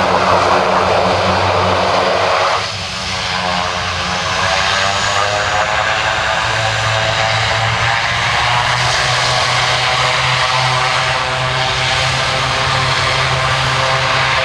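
Dornier 328-110's two Pratt & Whitney Canada PW119B turboprop engines running at takeoff power, with a steady low propeller drone. The sound drops and changes abruptly about three seconds in.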